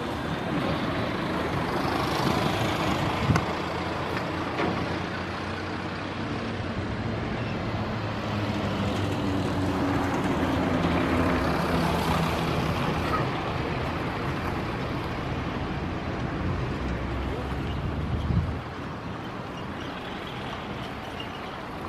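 Airbus A319 jet engines running on the ground, a steady rumble with a whine that swells and eases, dropping a little in level near the end.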